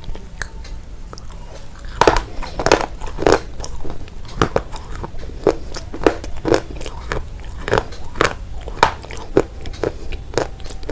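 Someone chewing crunchy food, crisp crunches at about two a second, with the loudest bite about two seconds in.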